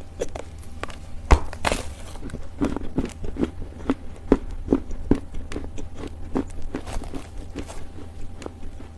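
Chewing and crunching a chunk of Chinese loess, the baked clay earth eaten as a snack: a steady run of soft, crisp crunches, about two a second, the sharpest about a second in.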